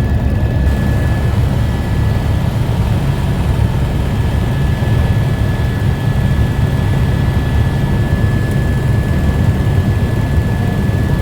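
Helicopter in flight: a steady, loud, low drone with a thin, constant high whine above it.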